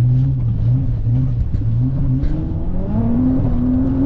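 Nissan GT-R R35's twin-turbo V6 under throttle while the car spins in snow, heard from inside the cabin. It holds at low revs, then the revs climb about three seconds in and stay up.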